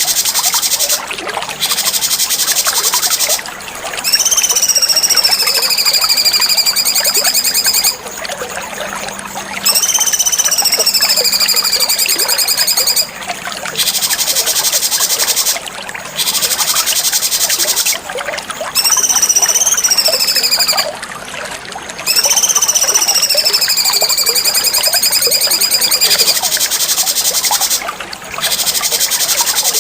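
Cucak cungkok song: four long, clear whistled notes, each rising at first and then sliding gently down, over a dense, rapid, high chirring that breaks off briefly every few seconds.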